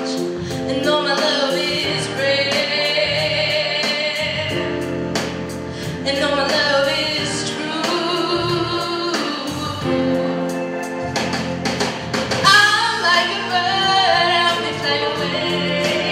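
A female vocalist singing a pop song live, with instrumental accompaniment underneath.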